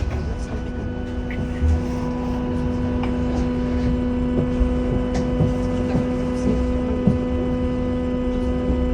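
Volvo B5LH hybrid bus's four-cylinder diesel running, with a steady turbocharger whistle held at one pitch over a low engine rumble and a few light rattles.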